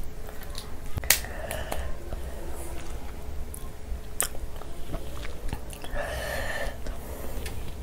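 Chewing, with a few sharp cracks, about a second and about four seconds in, as a curry-coated prawn is pulled apart by hand.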